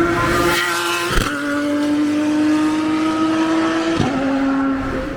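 Vehicle engine accelerating, its pitch climbing slowly and dropping sharply with a gear change about a second in and again about four seconds in.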